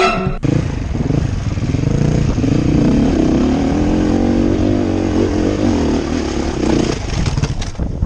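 Enduro dirt bike engine running under load, its pitch wavering up and down as the throttle is worked. A little before the end the engine note drops away.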